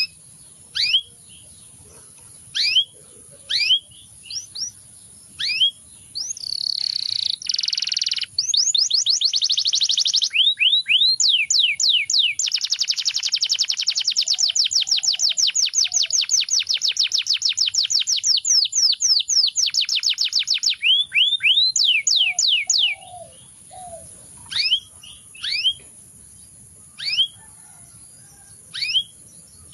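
Domestic canary singing: separate downward-sweeping chirps, then a harsh buzzy phrase, then a long, fast, rolling trill of repeated down-slurred notes lasting over ten seconds, ending in a few more separate chirps.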